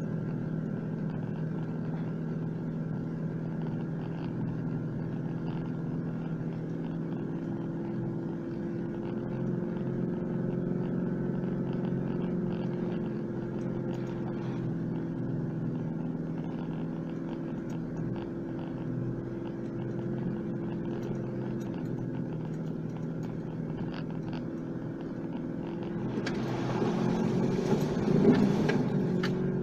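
4WD engine running steadily under light load as the vehicle drives along a dirt track, heard from inside the cab, its pitch drifting slowly. A louder rush of noise comes in near the end.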